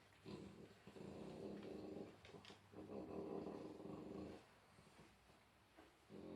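A pet dog making a series of low, drawn-out sounds, each about a second long with short pauses between them.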